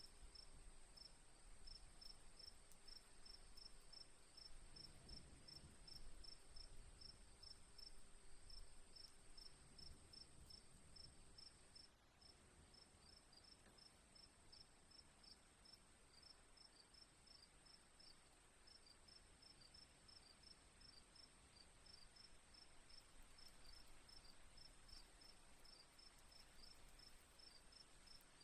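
Crickets chirping faintly: a rapid, even run of high chirps, about five a second, over a steady high ringing tone.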